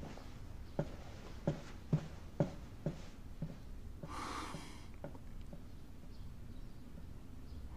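Footsteps on a hard floor, about two a second, growing fainter as they walk away. About four seconds in, a short breath.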